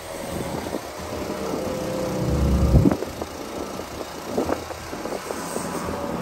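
An engine of snow-clearing machinery running steadily, with a heavy low rumble about two and a half seconds in and a few short knocks.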